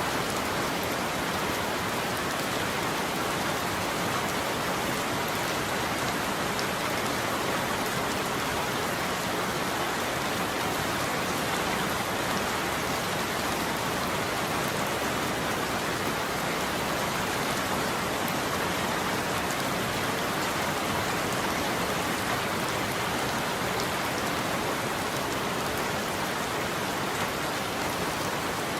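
Rain falling steadily on a roof: an even, unbroken hiss with no thunder.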